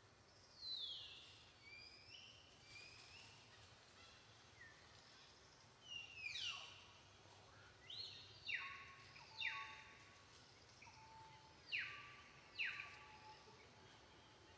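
A bird calling over and over: thin whistled notes that slide steeply down in pitch, about a dozen calls, coming more often and louder in the second half.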